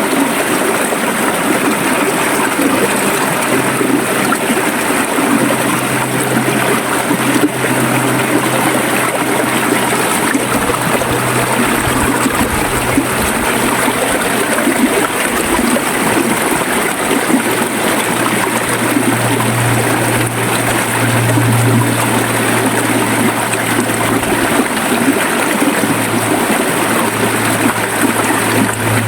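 River water flowing and gurgling steadily over stones. A low steady hum joins in about five seconds in and grows louder toward the end.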